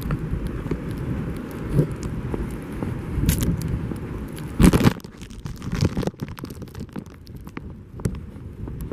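Storm wind rumbling on the microphone, with scattered crunching and scraping clicks and one louder crunch a little past halfway. The rumble eases after that.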